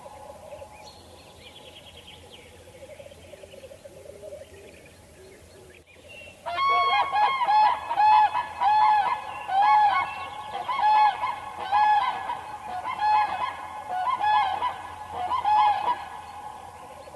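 A bird giving a run of about a dozen loud honking calls, each short and pitched, starting about six and a half seconds in. Before them there are only fainter calls.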